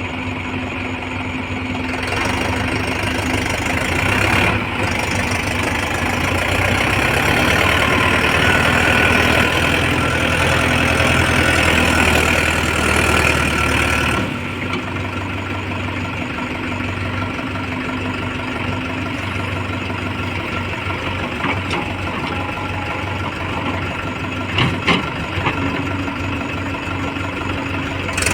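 Heavy diesel engine running steadily, working harder and louder for about twelve seconds before settling back to a lower, idle-like level, with a couple of short sharp knocks near the end.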